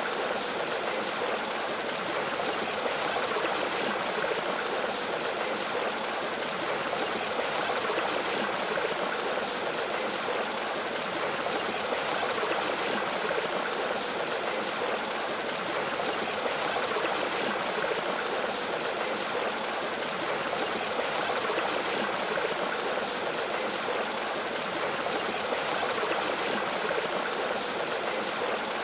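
Mountain stream with a small waterfall flowing over rocks: a steady, even rush of water.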